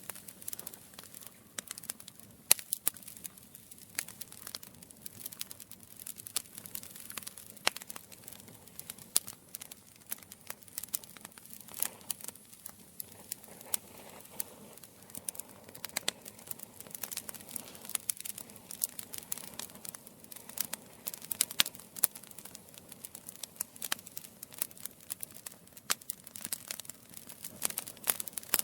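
Campfire crackling: a steady stream of irregular sharp pops and snaps over a soft hiss of burning wood.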